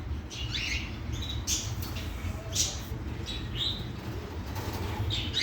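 Small birds chirping on and off, short high chirps over a steady low rumble.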